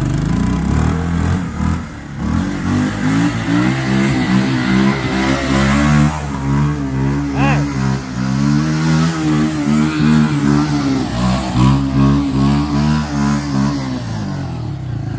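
Four-wheeler (ATV) engine revving hard, kept high in the revs, its pitch rising and falling in waves with a few brief let-offs of the throttle.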